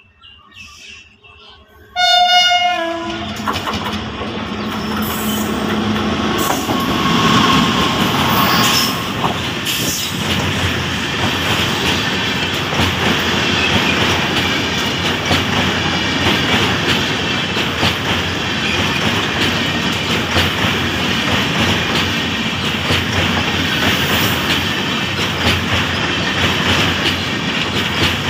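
A WAP7 electric locomotive sounds a short horn blast about two seconds in. Then the Rajdhani Express passes at speed, a loud steady rush of wheels on rail that runs on as the coaches go by.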